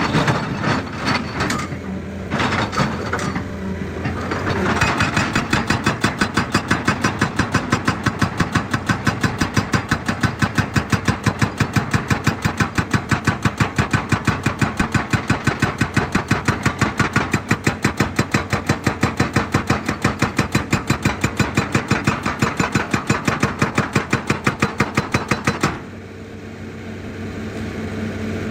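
Excavator-mounted hydraulic breaker hammering rock: a few irregular knocks, then about four even blows a second for some twenty seconds, stopping suddenly near the end, leaving the excavator's diesel engine running.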